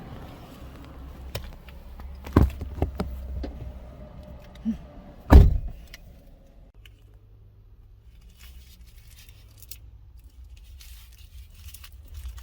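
Low steady rumble with scattered clicks and two loud thuds about three seconds apart. The rumble drops away about two-thirds of the way in, leaving faint clicks and rustling.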